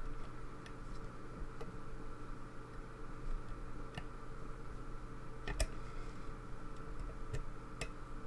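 Light metallic ticks and clicks of a lock pick working the pins of a pin-tumbler lock held under tension, irregularly spaced, with a couple of sharper clicks a little past halfway.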